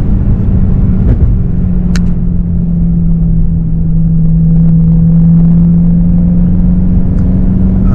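BMW E92 M3's 4.0-litre V8 with an Akrapovic exhaust, heard from inside the cabin while driving: a steady engine drone that eases slightly about a second in and climbs gently again near the end, over low road rumble.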